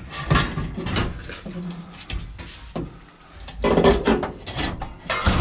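Irregular clattering and knocking of scrap items being handled, metal and hard objects bumping together, with a louder burst of clatter about two-thirds of the way through.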